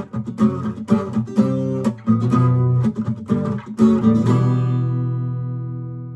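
Acoustic guitar strummed in chords with sharp strokes; a little over four seconds in, a last chord is struck and left to ring, fading away.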